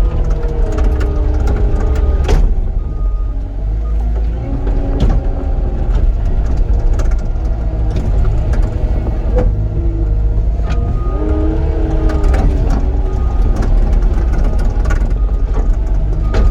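A vehicle engine running steadily with a deep rumble, its pitch shifting up and down as the load changes, with scattered clicks and knocks.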